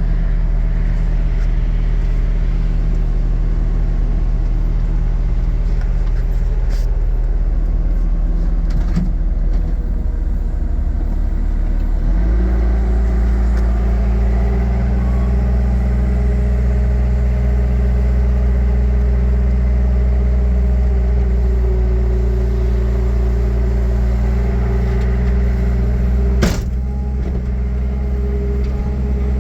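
A Bobcat T870 skid steer's four-cylinder Kubota diesel runs steadily at idle. About twelve seconds in it is throttled up and held at a higher, steady speed. There is one sharp click near the end.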